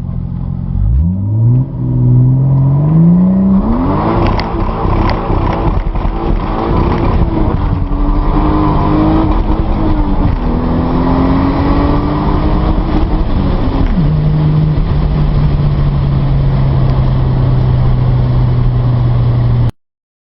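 Toyota Supra Mk4's turbocharged inline-six under hard acceleration: the revs climb sharply, dip briefly about two seconds in as it shifts, then climb again and hold high for several seconds. About fourteen seconds in the revs drop to a lower steady note, and the sound cuts off suddenly near the end.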